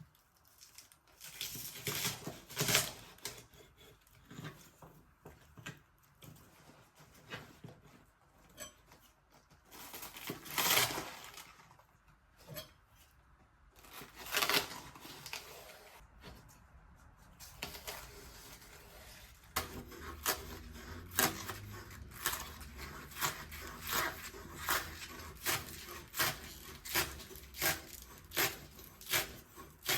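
Kitchen food-preparation noises: scattered tearing and rustling over the first two-thirds. Then a steady low hum starts, with regular sharp knocks about one and a half times a second.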